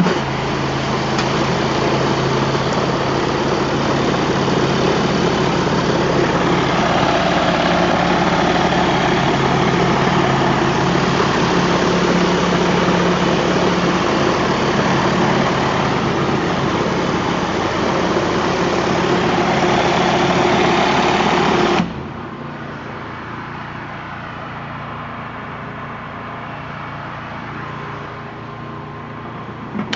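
Pressure washer's engine running steadily under a loud hiss of the high-pressure cold-water spray rinsing degreaser off concrete. About two-thirds of the way through, the hiss cuts off suddenly, leaving a quieter steady engine hum.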